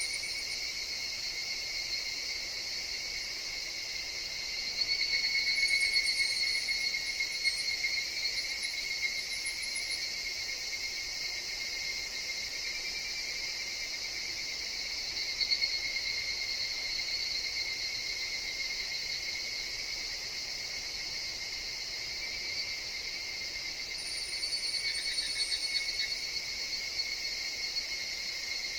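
Chorus of higurashi (evening cicadas) trilling steadily. The calls swell louder about five seconds in and again near the end.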